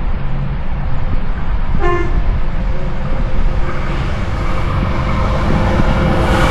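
Freight train's diesel locomotive rumbling and getting louder, with a short horn toot about two seconds in and a steadier horn tone sounding from about halfway.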